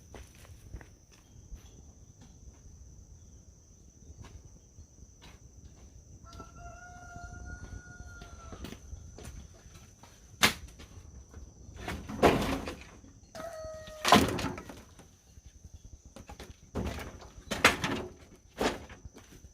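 A rooster crows once, about six seconds in, for roughly two seconds. Louder sharp knocks and rustles come in scattered bursts, and a steady high insect drone runs underneath.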